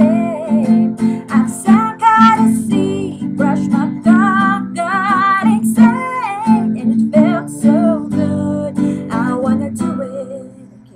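A woman singing over a strummed acoustic guitar, the performance dying away about ten seconds in as the song ends.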